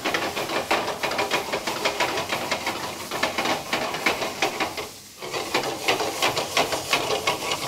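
Chicken livers and onion sizzling in hot oil in a frying pan as they are stirred over a high gas flame, with a dense run of crackles and spits. The sizzle eases briefly about five seconds in.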